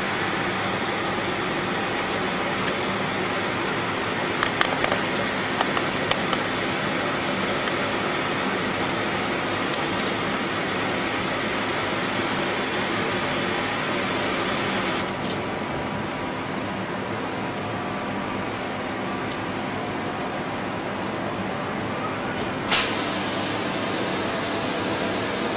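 Hitachi Seiki Hi-Turner 20 CNC lathe running: a steady mechanical hum and hiss with a few light clicks. The higher hiss drops away partway through, and a short loud hiss comes near the end.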